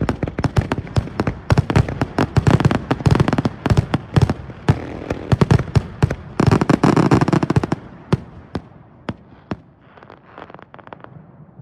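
Fireworks going off in a dense barrage of rapid bangs and crackles, thinning to scattered crackles after about eight seconds.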